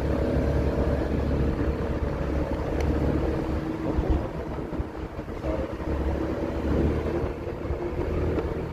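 Honda Forza 250 scooter's single-cylinder engine running steadily while riding, with wind rushing over the microphone.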